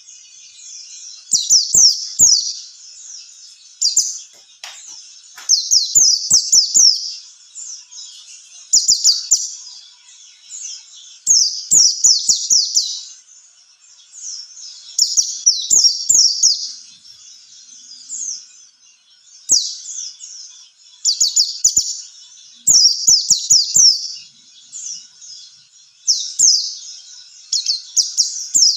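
White-eye (pleci) song: rapid, high-pitched twittering phrases, coming in bursts of a second or two and repeated every couple of seconds.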